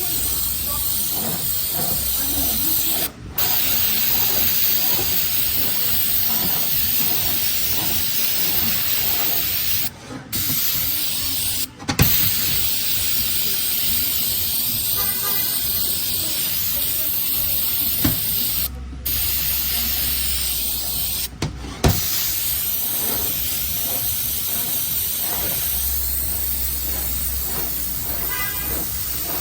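Aerosol brake cleaner spraying in long steady hisses onto a transmission clutch drum, cut off briefly about five times as the nozzle is released and pressed again.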